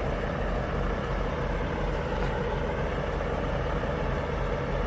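A vehicle engine idling steadily, an even, unchanging rumble.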